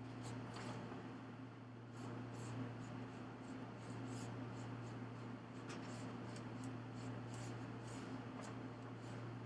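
Faint, irregular rustling and light scratching, like something being handled or rubbed, over a steady low hum.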